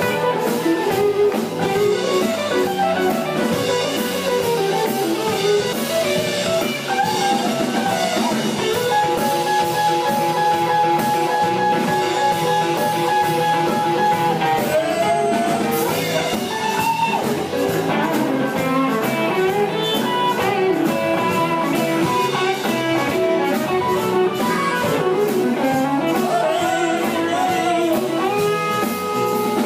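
Live blues-rock band playing an instrumental passage: a lead electric guitar plays bending melodic lines over drums and bass, holding one long sustained note about nine seconds in.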